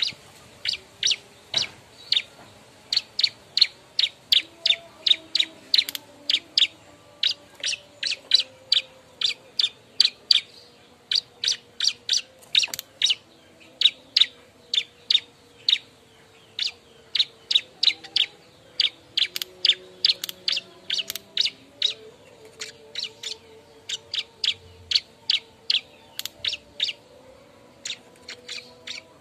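Bar-winged prinia (ciblek) calling loudly and excitedly: a fast string of short, sharp, high notes, about two to three a second, in runs broken by brief pauses.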